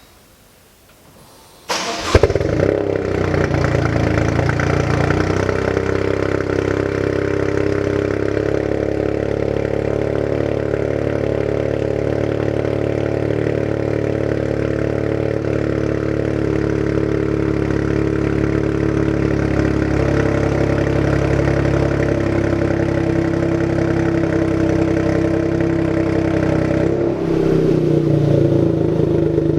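Toyota GR Yaris 1.6-litre turbocharged three-cylinder engine with an Akrapovic exhaust starting about two seconds in with a sharp burst, then idling steadily, its pitch easing slowly lower. Near the end the revs dip briefly and then pick up a little.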